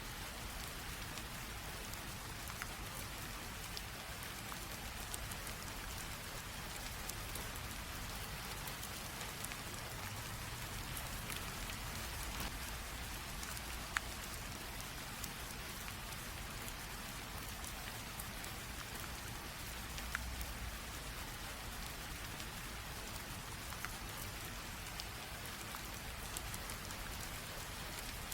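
Steady light rain drizzle: an even hiss of rain with scattered drops ticking on a surface, one drop sharper than the rest about halfway through.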